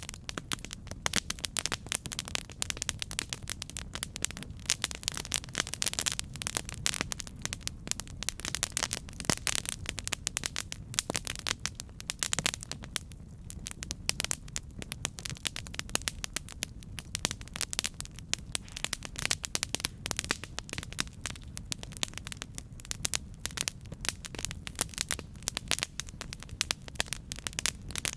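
Campfire burning, with a dense stream of irregular crackles and pops from the burning wood over a steady low rumble of the flames.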